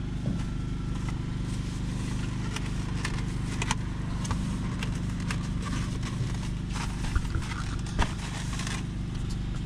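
Steady low hum of an idling vehicle engine, with scattered light clicks and scrapes and two sharper knocks about seven and eight seconds in.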